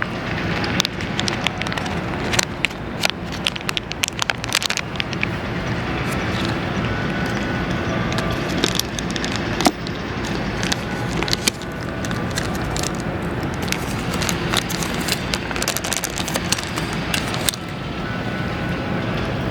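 Steady outdoor background noise with scattered sharp crackles and clicks, thickest a couple of seconds in.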